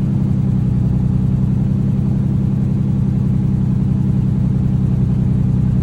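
Nissan 350Z's VQ35DE V6 idling steadily with a mild misfire still present.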